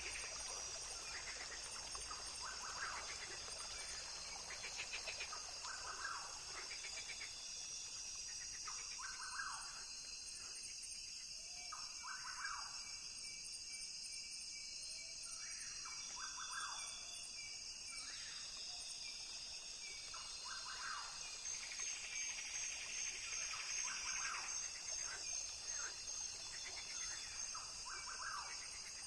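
Rainforest ambience: a steady, high-pitched insect chorus with bird calls repeating every second or two.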